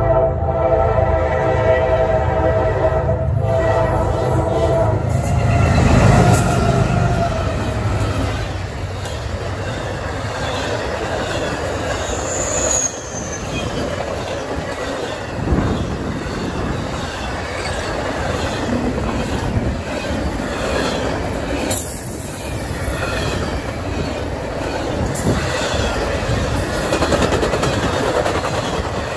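Norfolk Southern freight train's horn sounding a held multi-tone chord that stops about five seconds in, then the locomotives passing close, loudest about six seconds in. After that comes the steady rush of intermodal flatcars with semi-trailers rolling past at speed, with one brief high squeal near the middle.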